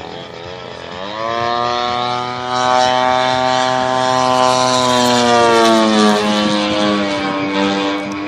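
Propeller-driven model aeroplane: a large RC Extra 300's DA-120 twin-cylinder two-stroke petrol engine and propeller. The pitch wavers at first, rises about a second in as the engine speeds up, holds high, then drops around five to six seconds in.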